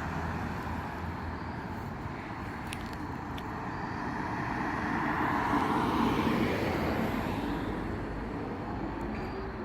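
Road vehicle noise, with one vehicle passing by: the sound swells to a peak about halfway through and then fades.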